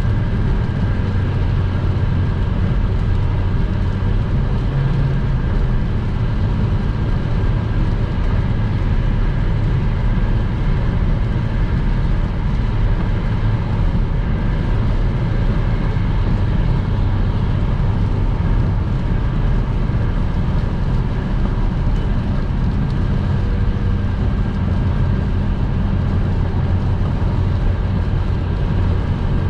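Car driving at motorway speed on a rain-wet road: a steady low rumble of engine and tyres with an even wash of road noise above it.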